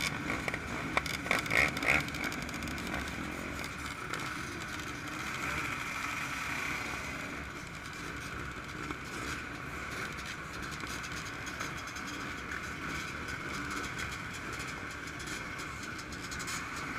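Dirt bike engines running steadily, with a few knocks in the first two seconds.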